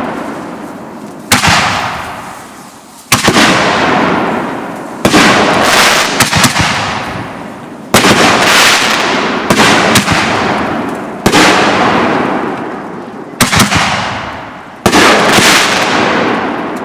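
Consumer aerial fireworks bursting one after another, a sharp bang about every two seconds, each trailing off in a long, fading crackle and hiss. A quick cluster of pops comes about six seconds in.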